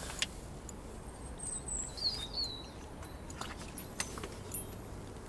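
A wild bird calls twice in quick succession, short gliding chirps, about two seconds in, over a steady low background noise with a few sharp clicks.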